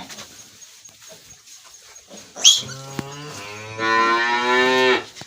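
A farm animal's long, low call, held for about two and a half seconds and louder in its second half. Just before it comes a short, sharp squeal.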